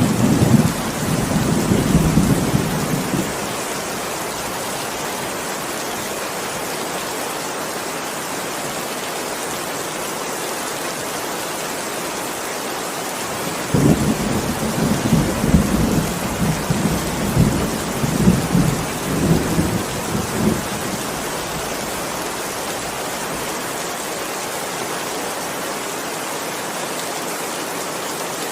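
Steady heavy rain, with two rolls of thunder rumbling over it: one right at the start lasting about three seconds, and a longer one beginning about 14 seconds in and lasting some seven seconds.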